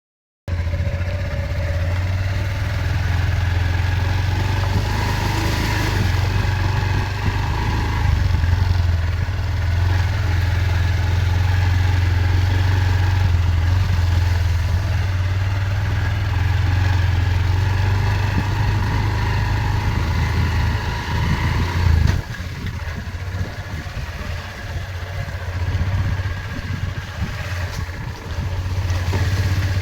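A vehicle engine running steadily with a strong low hum. About two-thirds of the way through, its higher tones fall away and leave mostly the low hum.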